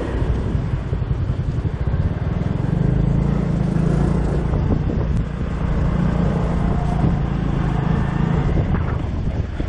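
Motorbike engine running steadily while riding on the back of the bike, its hum growing louder about two and a half seconds in, with wind buffeting the microphone and street traffic around.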